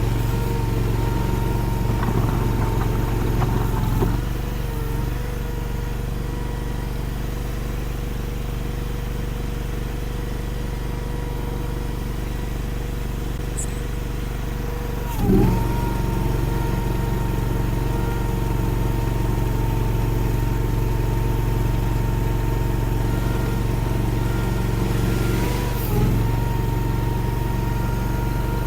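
Derette DRT450 mini skid steer's engine running steadily under a working throttle, with a steady whine above it. Three times, about ten seconds apart, the pitch sags briefly as the machine takes load.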